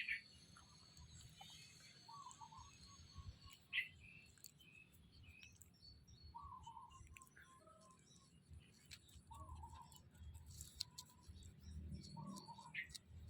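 Faint bird calls: a short warbling call repeated every few seconds, with a few sharp higher chirps between.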